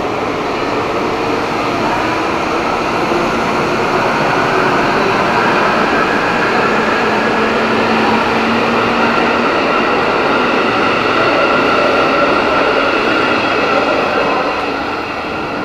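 KRL Commuterline electric multiple-unit train running into a station, a continuous rail rumble with a faint steady motor whine over it. It gets quieter near the end.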